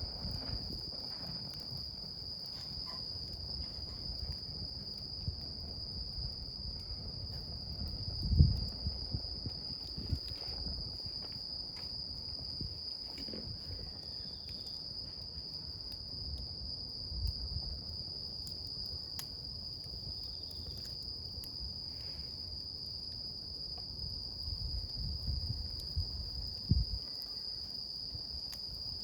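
Wood campfire crackling and popping, with a sharp pop about eight seconds in and another near the end. Under it runs a continuous high-pitched insect trill.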